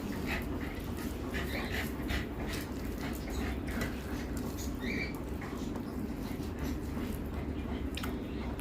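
A dog whimpering in a few short, high calls over a steady low hum.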